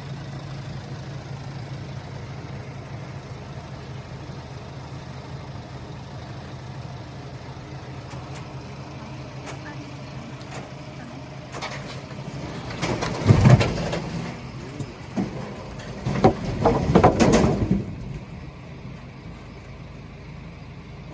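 Delivery truck's diesel engine running steadily. Partway through, the load of oak logs comes down off the truck with two heavy bouts of clattering and thudding, the loudest stretch a few seconds later.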